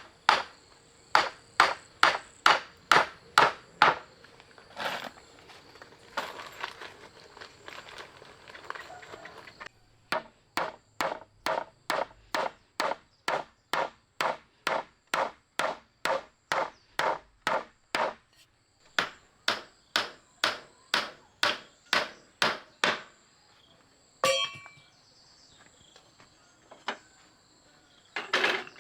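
A blade chopping on a wooden board in steady runs of about two to three strokes a second, with short pauses between the runs.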